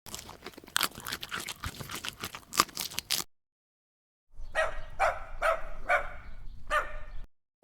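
A dog barking about six times in a steady series. Before it comes about three seconds of dense crackling noise.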